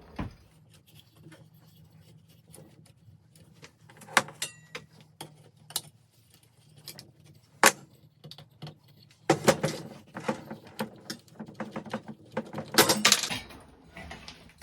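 Metal parts of a ceiling fan clicking, clinking and rattling as it is taken apart by hand: scattered sharp clicks, then two busier bursts of clatter in the second half.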